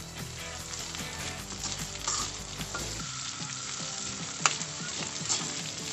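Diced potatoes and meatloaf sizzling in oil in a metal wok while a metal spoon stirs them, scraping and clicking against the pan. There is one sharp clink about four and a half seconds in.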